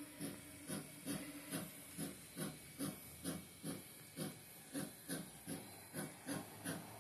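Bachmann N scale 2-8-0 Baldwin Consolidation model locomotive running slowly in reverse: an even chuffing rhythm of about two beats a second, each beat a soft hissing pulse, over a steady faint hiss.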